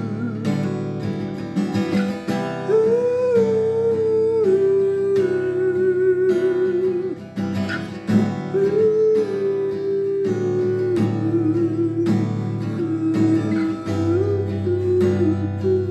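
Acoustic guitar strumming a steady chord pattern, with a wordless hummed or sung melody of long held notes over it.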